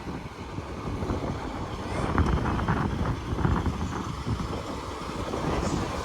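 Low, steady rumble of a train and railway station noise at a platform.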